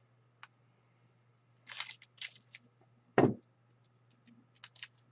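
Trading cards being handled on a table: scattered light clicks and rustles, with one louder knock about three seconds in.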